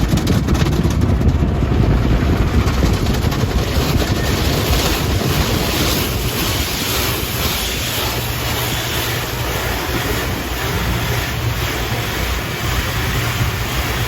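Water pouring and spraying down over a pickup truck in a tunnel car wash's waterfall arch, heard from inside the cab as a steady rushing wash, with the wash machinery running; a low steady hum joins about halfway through.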